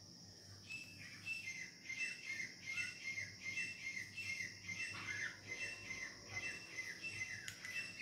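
A small bird chirping: a long run of short, falling chirps about twice a second, starting about a second in, over a steady high-pitched hiss.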